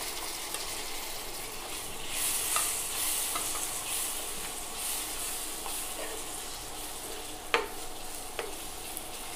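Chopped tomatoes sizzling as they fry in hot oil with onions and spices, stirred with a steel spoon that clinks against the pan a few times. The sizzle swells about two seconds in, and the loudest clink comes about seven and a half seconds in.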